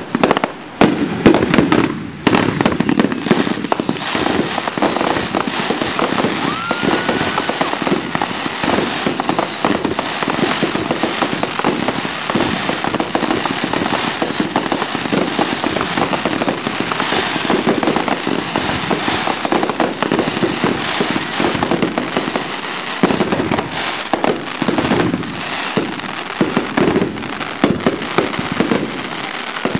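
A fireworks finale of many consumer cakes and reloadable shells firing together: a dense, unbroken barrage of bangs and crackling. A run of short, high, falling whistles repeats through roughly the first two-thirds.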